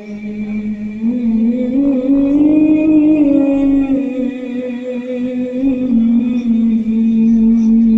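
A man's voice reciting the Qur'an in a melodic chanting style, holding long notes and ornamenting them with bends and trills. The pitch climbs about a second or two in and settles back down about four seconds in.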